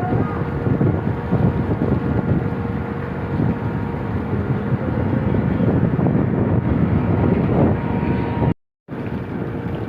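Steady engine drone with wind buffeting the microphone, broken by a sudden gap of silence for a fraction of a second near the end.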